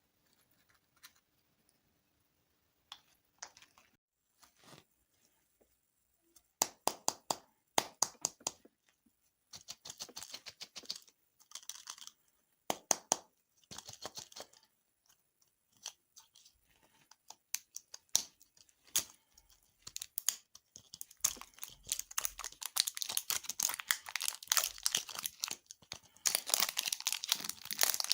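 Crisp crinkling, crackling and tearing of candy packaging and sweets being handled up close, in scattered clusters at first and dense and continuous in the last several seconds.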